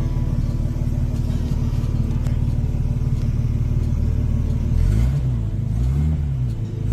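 Car engine idling steadily, then revved up and back down twice near the end.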